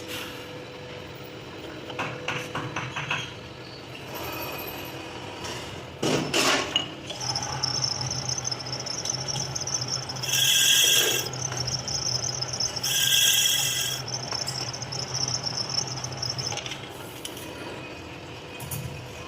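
Metalworking shop sounds: scattered metal knocks and clinks of hand tools, with one louder knock about six seconds in. Then a machine motor hums steadily, and two short high-pitched squealing bursts come a few seconds apart.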